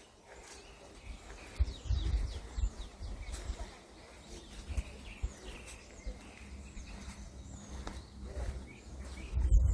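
Woodland birds chirping and calling, many short notes, with irregular low rumbles and thumps underneath, heaviest about two seconds in and again near the end.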